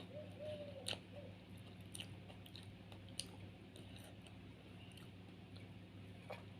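A person chewing and biting food up close, faint, with a few soft mouth clicks scattered through. Her mukbang is of dilis, small dried anchovies mixed with tomato and onion. A low steady hum runs underneath.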